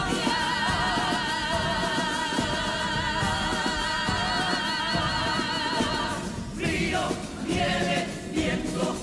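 Carnival comparsa choir singing in several voices. It holds one long chord with vibrato for about six seconds, then breaks off into shorter sung phrases over its accompaniment.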